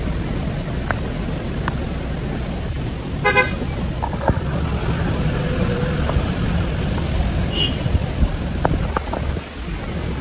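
Road traffic with a steady low rumble of passing vehicles, and a single short car horn honk about three seconds in.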